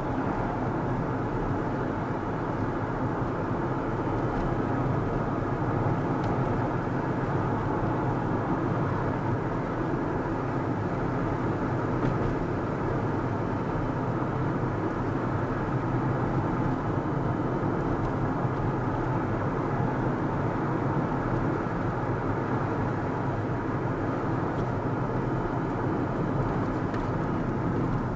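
Car driving along a road at steady speed: continuous engine and tyre noise with no change in pace.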